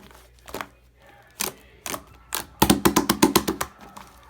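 Chocolate-coloured slime being squeezed and pressed by hand, making sharp popping clicks: a few single pops, then a rapid run of about ten loud clicks about two and a half seconds in.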